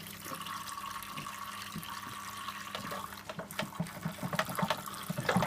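Water rushing and splashing inside the drum of an Electrolux W455H commercial washing machine during its main wash, over a steady low machine hum.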